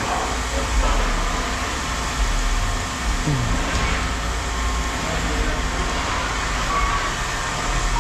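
Machinery running with a steady low rumble under a haze of yard noise.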